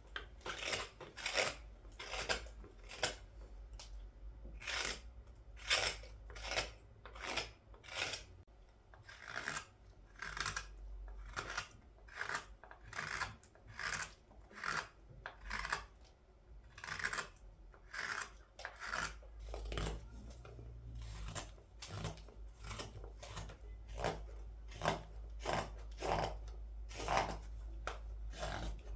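Hand carving tool slicing into the hollow of a wooden scoop, taking off wood in repeated short scraping cuts, a little over one a second.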